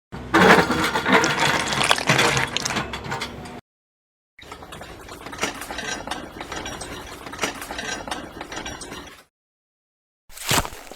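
Small mechanical clicking and rattling in three short edited clips: loudest and densest in the first few seconds, steadier in the middle, and a brief burst near the end. Each clip is cut off by dead silence.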